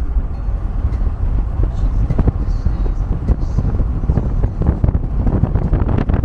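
Heavy wind buffeting the microphone: a loud, continuous low rumble with crackling gusts.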